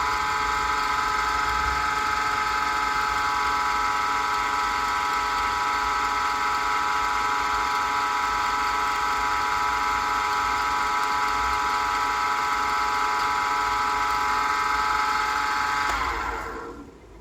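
Pen-turning lathe motor running at a steady speed with a constant whine, then switched off near the end and spinning down to a stop.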